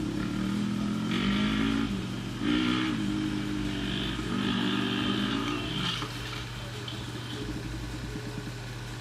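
Small off-road vehicle engine revving up and down, its pitch rising and falling about three times, then dropping back after about six seconds. A steady low hum runs underneath.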